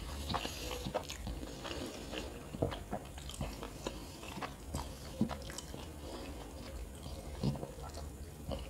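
Close-up eating sounds: chewing a mouthful of kottu, with irregular wet clicks and smacks.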